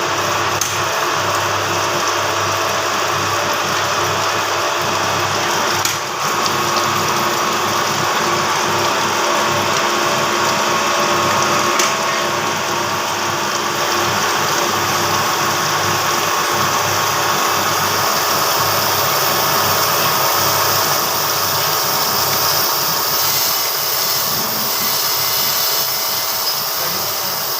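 Camshaft grinding machine running steadily, a loud continuous hum and hiss with a brief dip about six seconds in.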